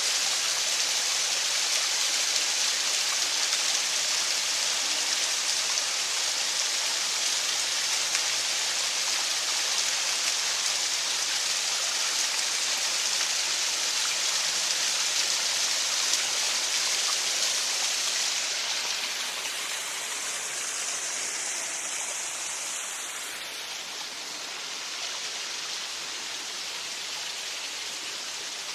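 Small waterfall splashing and rushing steadily, a continuous hiss of falling water. It grows somewhat quieter about two-thirds of the way through.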